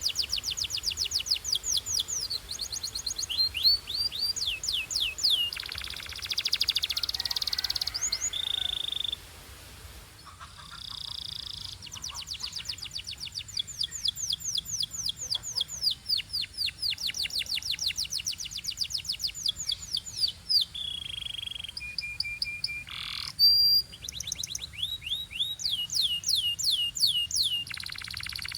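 Canary singing: long runs of rapid, evenly repeated sweeping notes, several a second, that switch to a new pattern every few seconds, broken by a few short held whistled notes and a buzzier rolling passage.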